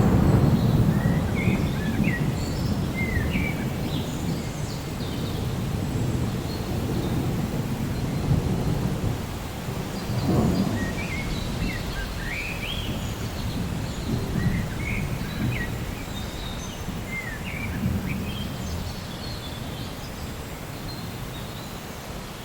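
Thunder rumbling, loudest at the start and dying away, with another low roll about ten seconds in, over steady rain. Birds chirp throughout.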